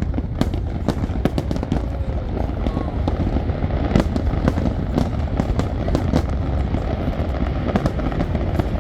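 Fireworks finale: a dense, continuous barrage of aerial shell bursts, with rapid sharp cracks over a steady low rumble, one louder bang about four seconds in.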